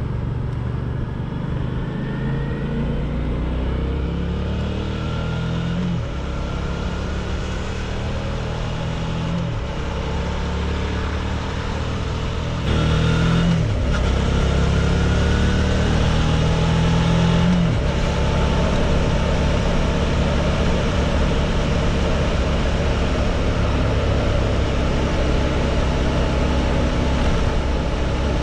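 Suzuki V-Strom 650's V-twin engine under way, accelerating up through the gears. Its pitch climbs and then drops sharply at four upshifts, about 6, 9, 13 and 18 seconds in. After that it holds a steady cruise over a constant rush of noise.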